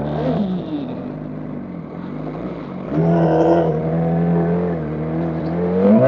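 Motorcycle engine under way: the revs drop at the start and stay low and quieter for about three seconds, then it pulls strong and steady from about three seconds in, with the pitch rising near the end as it accelerates.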